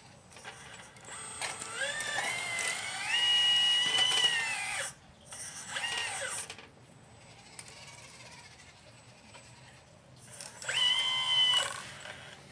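Electric hydraulic pump of a 1/12-scale RC Liebherr 954 excavator whining in three bursts as the machine moves: the first rises in pitch and holds for about three seconds, a short one follows, and another comes near the end.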